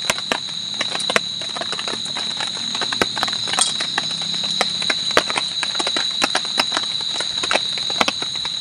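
Night insects singing in a steady, unbroken high whine, with scattered sharp clicks and taps throughout.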